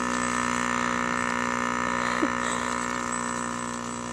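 Yamaha PW50's small two-stroke single-cylinder engine running steadily at an even throttle, growing gradually fainter.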